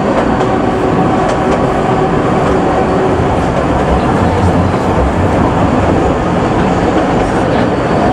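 Kurobe Gorge Railway trolley train running on its narrow-gauge track: a steady, loud rumble of wheels on rail with a few faint clicks.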